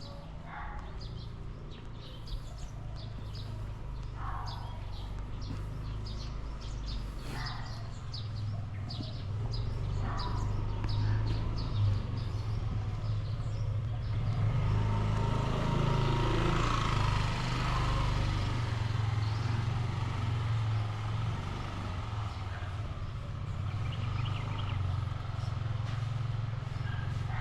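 Outdoor street ambience with a steady low rumble and scattered bird chirps. A vehicle passes about halfway through, growing louder, then fading away.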